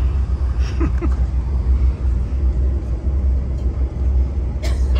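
Steady low rumble and rolling noise of a passenger train running at speed, heard inside an LRC passenger car. A brief sharp click near the end.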